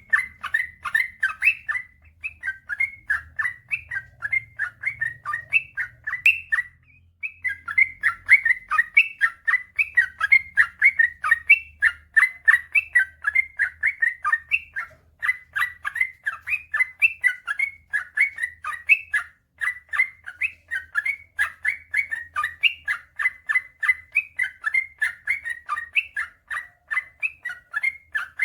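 Yellow-vented bulbul (trucukan) singing a long, fast run of short warbling notes, three or four a second, with one brief pause about seven seconds in.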